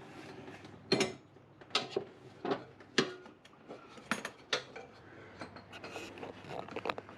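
Sharp metal clinks and clanks, about six at irregular intervals, from hand work on the metal pulleys and belt tensioner of a mower deck.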